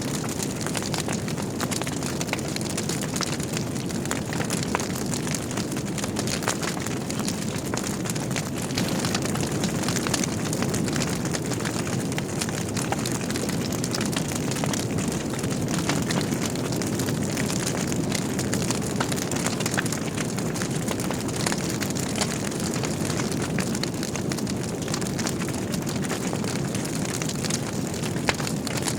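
Wood fire burning in a fireplace: logs crackling and popping, with many small irregular snaps over a steady low rumble of the flames.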